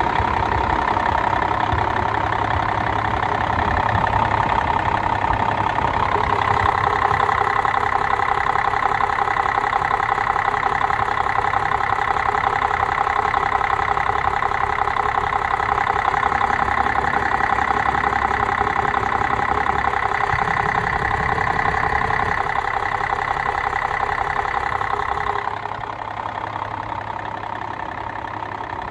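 Caterpillar diesel engine of a Western Star 4964F truck running steadily at idle; it gets louder about six seconds in and drops back quieter near the end.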